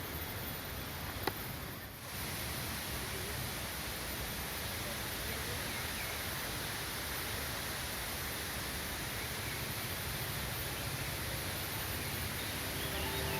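Steady rushing of river water, with a few faint bird chirps and a single short click about a second in.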